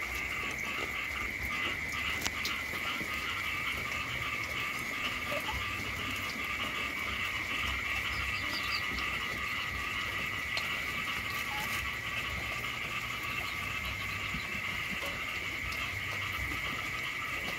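Frogs calling in a dense, steady chorus, a continuous high trill with fast pulsing over it.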